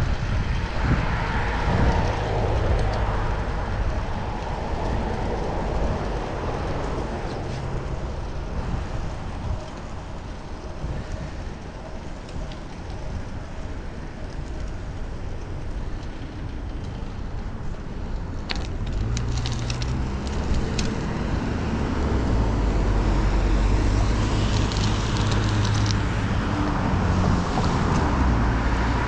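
Road traffic and wind rush heard while cycling through city streets. A motor vehicle's low engine rumble builds in the second half, with a few sharp clicks about eighteen seconds in.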